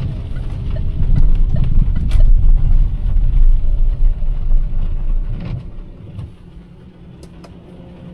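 Car on the move in heavy rain: a low, loud rumble of engine and road noise with scattered sharp ticks on top. The rumble falls away steeply about two-thirds of the way through, leaving a quieter low hum.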